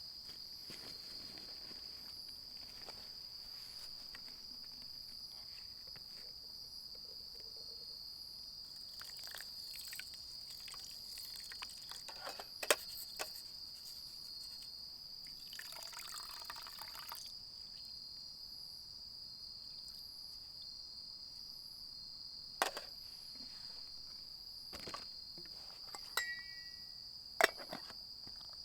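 Insects chirring in a steady high-pitched drone, with a few sharp clicks and knocks, three of them louder, and a brief hiss around the middle.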